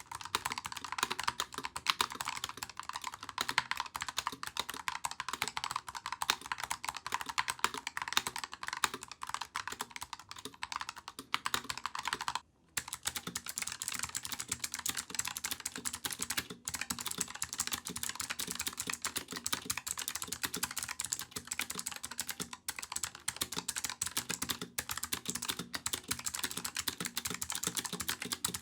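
Fast, continuous typing on a mechanical keyboard, the key switches clacking in a dense stream. About halfway through there is a brief pause, after which the clicks sound different, as another switch is tested.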